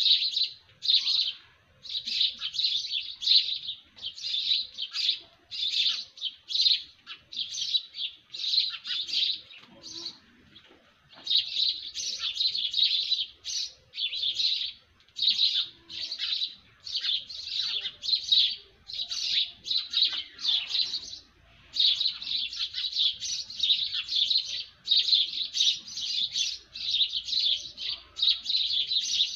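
Small birds chirping, in dense high-pitched bouts of about a second each that follow one another almost without a break, pausing briefly about ten and twenty-one seconds in.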